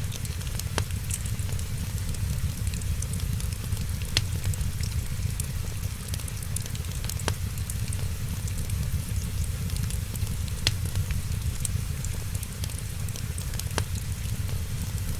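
Wood fire crackling steadily, with many small ticks and a few sharp pops about every three seconds over a low rumbling hiss.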